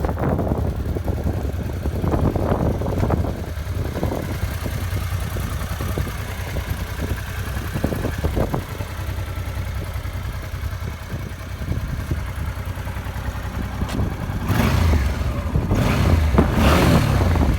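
Honda Deauville 700's V-twin engine idling, then revved up and down several times near the end.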